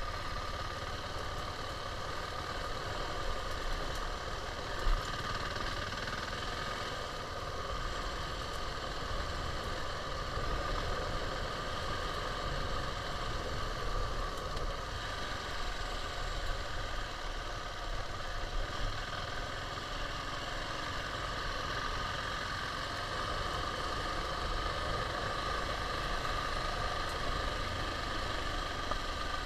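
KTM 690's single-cylinder engine running steadily, with a low rumble underneath and one brief thump about five seconds in.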